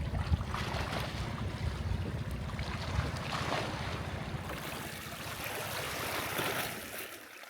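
Small boat's outboard motor running, its low pulsing rumble mixed with water and wind noise on the microphone; it fades and drops away sharply near the end.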